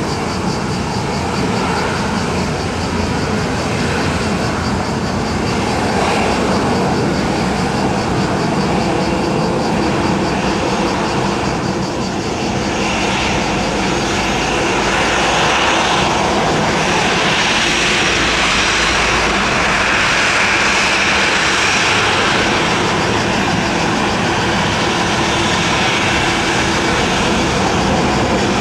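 Jet engines of a Boeing 737-700 BBJ running steadily with a faint high whine, growing a little louder about halfway through.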